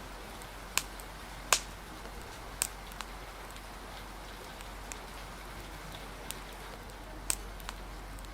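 Steady rain hiss with a wood fire crackling over it: a few sharp, separate pops, the loudest about a second and a half in and another cluster near the end.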